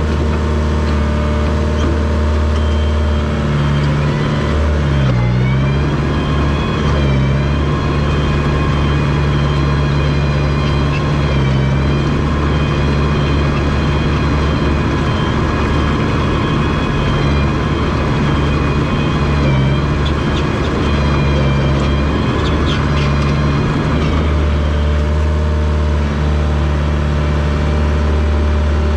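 Komatsu DP21 bulldozer's diesel engine running steadily under load as the machine pushes fill, its pitch rising about three seconds in, dipping briefly around five seconds, and dropping back near the end.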